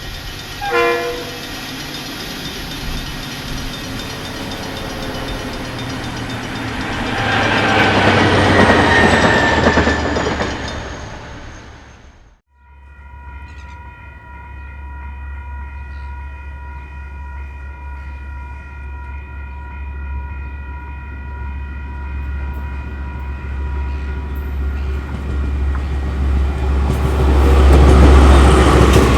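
Diesel-hauled freight trains passing: a short horn blast about a second in, then the locomotive and wagons rumbling past, louder at about nine seconds. After an abrupt cut a second diesel locomotive idles with a deep rumble and a steady whine, growing louder towards the end as another train approaches.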